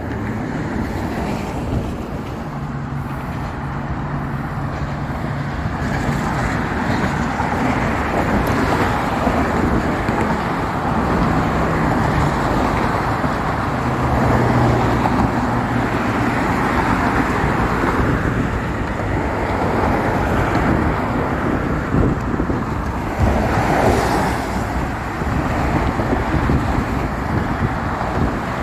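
Steady road-traffic noise from passing cars, with wind buffeting the microphone. A low engine hum rises and fades a few times as vehicles go by.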